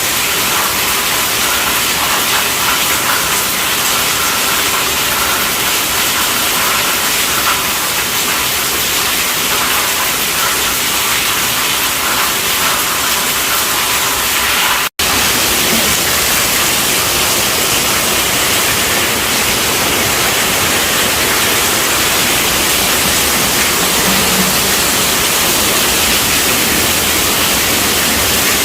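Heavy rain pattering on a tent roof: a steady, dense hiss with no let-up. It cuts out for a split second about halfway through, then carries on with a little more low rumble.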